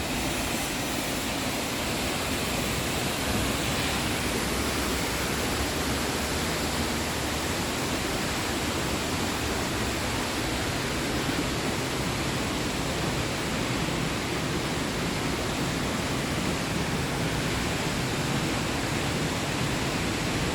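Looking Glass Falls pouring into its plunge pool: a steady, unbroken rush of falling water.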